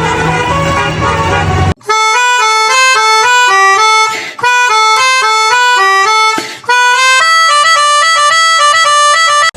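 Toy telolet bus's electronic sound chip playing a reedy, horn-like telolet melody in quick stepped notes. For about the first two seconds the tune runs over a low hum, then cuts out suddenly and restarts as a clean melody, which breaks off briefly twice before it stops.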